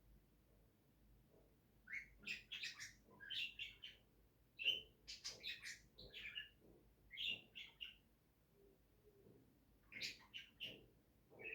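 A small pet bird chirping: quick runs of short, high chirps starting about two seconds in, a pause near eight seconds, then a few more chirps near the end.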